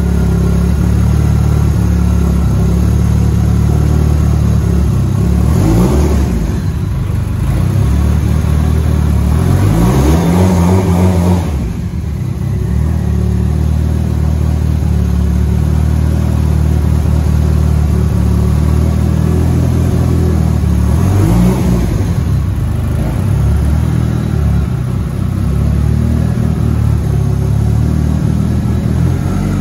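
Mitsubishi Lancer Evolution's turbocharged four-cylinder engine running at idle, blipped three times with a short rise in pitch, several seconds apart.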